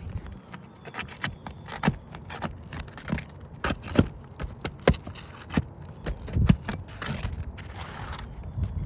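A run of sharp, irregular clicks and knocks, about a dozen, with a little scraping between them.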